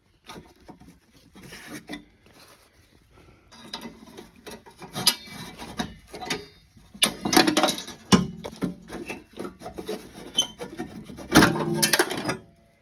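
Pliers working steel exhaust springs off a 1980 John Deere Spitfire snowmobile's exhaust pipe: irregular scraping and clicking of metal on metal, with the loudest clusters about seven and eleven seconds in.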